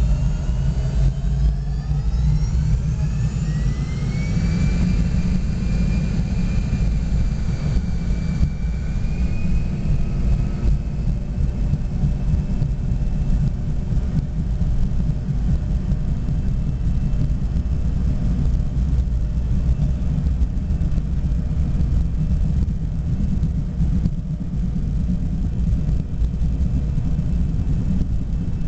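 Fokker 70's twin Rolls-Royce Tay turbofans heard from inside the cabin, spooling up to take-off thrust: a whine that rises in pitch over the first few seconds and then holds steady. Under it runs a heavy, continuous rumble of the airliner's take-off run.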